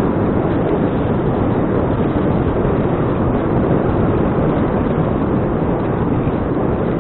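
Steady wind rush buffeting an action camera's microphone while the bicycle rides along, with low rumble and no distinct events.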